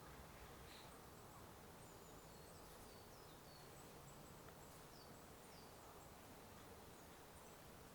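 Near silence: faint steady outdoor background noise with a few soft, high, short chirps of small birds scattered through it.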